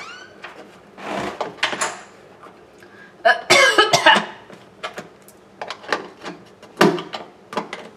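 A man coughing in several fits, the longest and loudest about three and a half seconds in, brought on by dust stirred up from under a refrigerator. Light clicks of handling between the fits.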